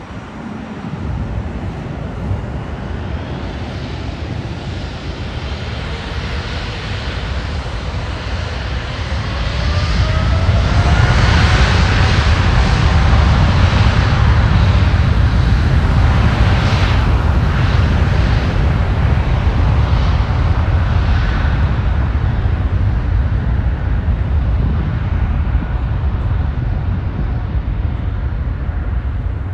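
Boeing 777-300ER jet airliner's GE90 turbofan engines, a heavy rumble with a whine that rises in pitch over the first ten seconds or so. The sound is loudest about halfway through, then slowly fades.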